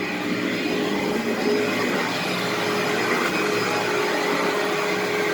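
Vacuum cleaner running steadily over carpet, an unchanging motor hum with a constant whine.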